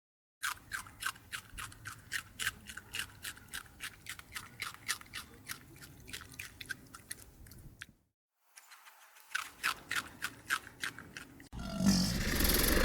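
An animal chewing food close up: rapid, regular crunching strokes, about five a second, broken by a short gap, then a louder breathy noise near the end.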